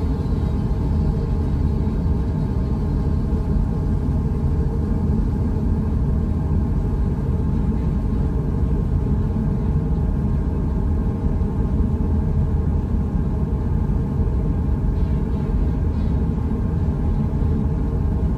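Steady low rumble of a ship's engines, with a faint steady hum above it.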